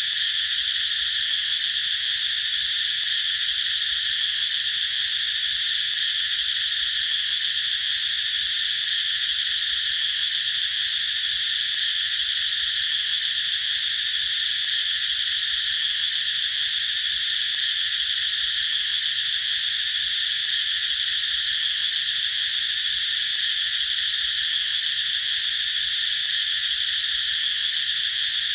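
Chorus of cicadas singing, a steady, unbroken high-pitched drone that neither rises nor falls.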